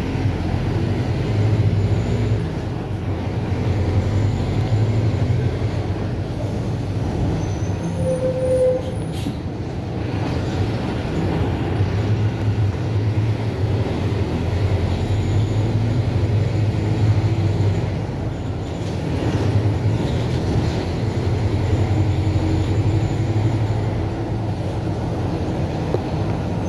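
Mercedes-Benz OF-1721 BlueTec 5 bus diesel engine running on the move, its deep note swelling and easing several times as the bus pulls and slows.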